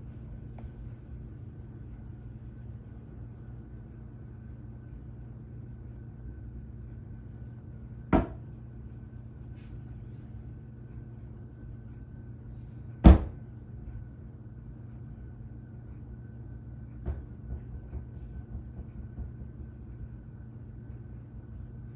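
Two sharp knocks about five seconds apart over a steady low hum with a faint high tone, followed by a few lighter clicks near the end.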